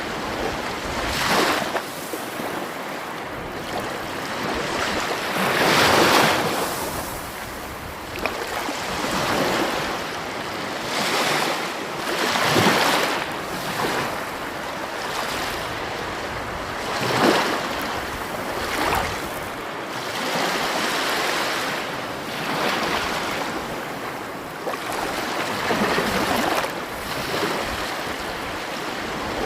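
Sea waves breaking on a shore and washing back, a steady rush of surf that swells to a crest every four to five seconds.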